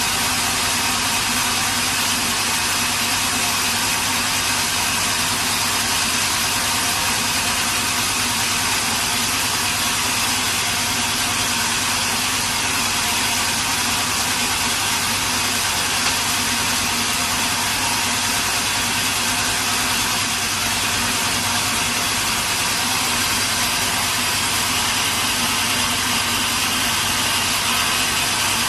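Sawmill machinery running steadily: a constant, unchanging machine sound with a strong hiss and steady hum throughout.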